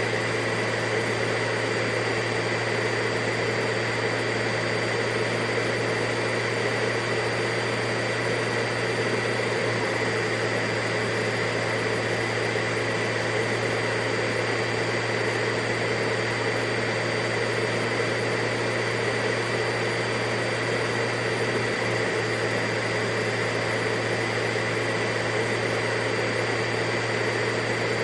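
Vacuum cleaner running steadily, a constant motor hum and rush of air with a few fixed tones held through, no change in speed.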